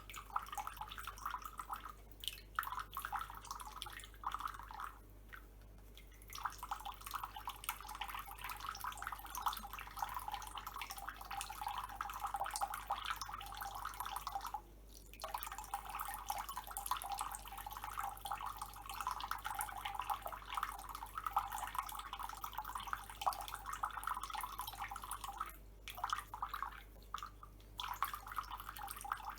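Thin stream of tap water dripping and splattering, cutting out briefly several times.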